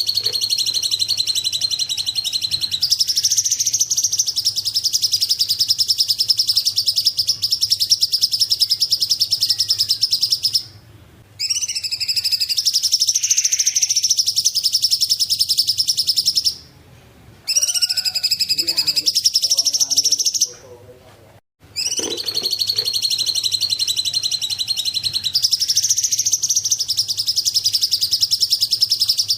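Cungkok bird singing: long, very fast, high trills held for several seconds at a time, broken by brief pauses three times.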